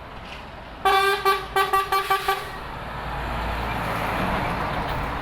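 Truck horn sounded in a quick run of short blasts about a second in, followed by the rising rumble of a heavy truck driving past.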